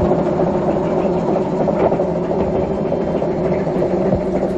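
Small diesel locomotive of a miniature railway running with a steady engine note.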